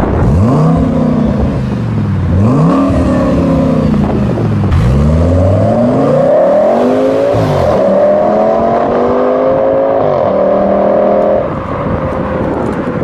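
Twin-turbo V10 of a 780 hp Audi RS6 under hard acceleration, its pitch climbing and dropping at upshifts about two, five and eight seconds in. It then holds high revs before easing off a little before the end.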